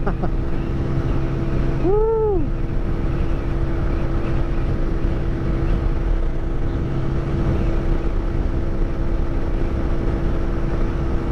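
Suzuki 125 single-cylinder four-stroke motorcycle engine running at a steady cruise, heard from the rider's seat under a steady rush of wind and road noise. About two seconds in there is one brief tone that rises and then falls.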